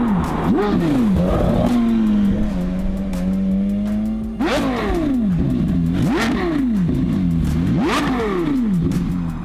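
Porsche Carrera GT's V10 through a Kreissieg X-pipe cat-back exhaust, revving hard. A quick rise and fall, then a few seconds of held, slowly sinking revs; about halfway a sharp jump in revs, followed by a run of quick rises and falls, roughly one a second.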